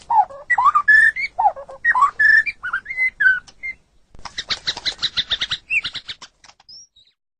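White-rumped shama (murai batu) singing: a run of clear whistled notes that slide up and down, then, about four seconds in, a fast series of short harsh chattering notes. A few faint notes follow before the sound cuts off.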